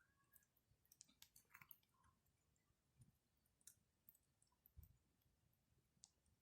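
Faint crackling of a wood campfire: scattered small pops and ticks at irregular intervals.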